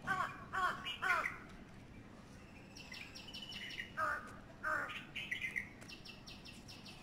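Birds calling: three quick arching calls in the first second, two falling calls about four seconds in, and short runs of rapid high chirps around three and six seconds.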